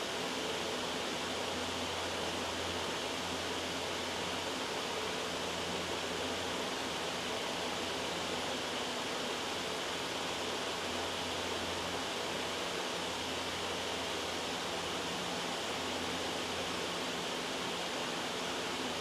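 Steady white noise: an even, unbroken hiss.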